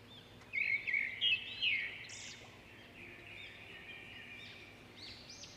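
Small birds chirping: quick runs of short, arching high calls that are busiest and loudest in the first couple of seconds, then thinner and softer.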